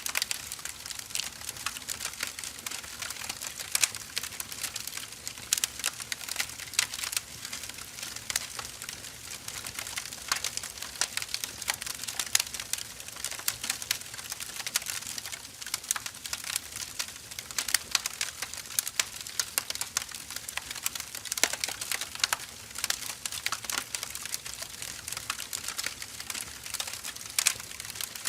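Firewood burning: a steady hiss thick with irregular crackles, with a few louder pops now and then.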